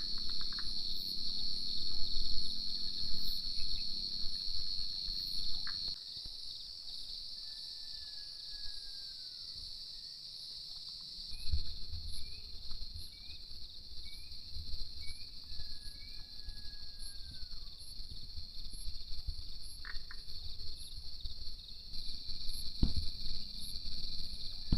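Steady, high-pitched chorus of forest crickets, with a rough low rumbling noise in the first few seconds and again in the second half, and a short whistled call that falls in pitch, heard twice.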